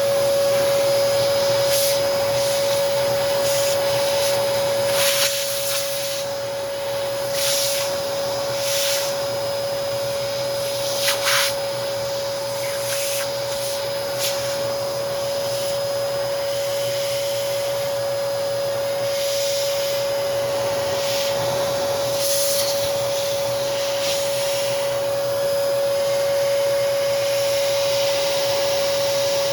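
Hoover Commercial PortaPower CH30000 vacuum running steadily with a high, even motor whine while its nozzle works over a motor housing. Several brief, louder hissing surges come through as it sucks at the parts.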